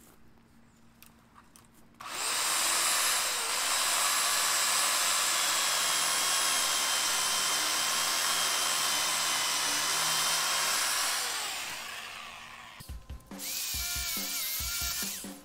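Sun Joe SWJ805E electric pole saw's 6-amp motor and chain starting about two seconds in and running at a steady high whine, then winding down. Near the end it starts again, its whine now lower and wavering.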